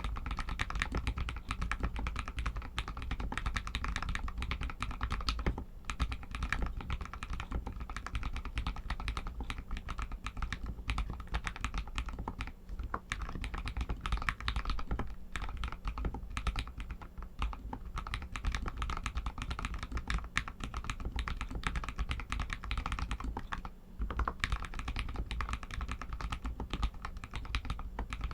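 Continuous fast typing on an RK61 mechanical keyboard with Outemu Red linear switches: a dense run of key clicks and clacks, with two brief lulls.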